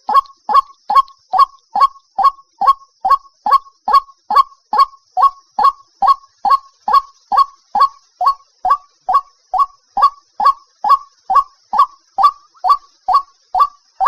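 White-breasted waterhen calling: one short note repeated over and over at about two and a half a second, each note dropping in pitch.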